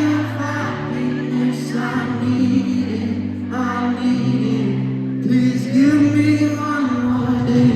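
Live pop ballad: a man singing over sustained chords, recorded from the audience in a large hall.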